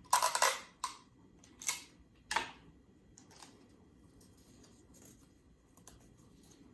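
Sticky tape and an index card being handled while taping: a few short rasping rips and crinkles in the first two and a half seconds, then faint handling.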